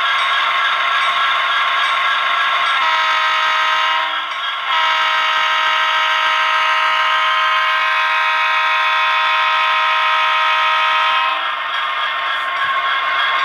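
Sound decoder in an HO-scale EMD SD70M-2 model locomotive playing a diesel horn chord through the model's small speaker, over the steady running sound: a short blast about three seconds in, then a long blast of about seven seconds that stops with a couple of seconds left.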